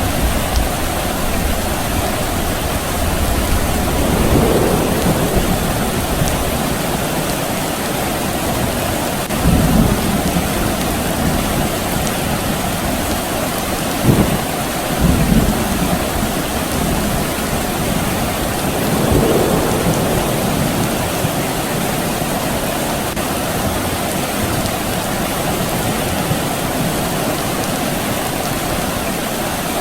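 Steady rain falling, with distant thunder rumbling several times and one sharper crack near the middle.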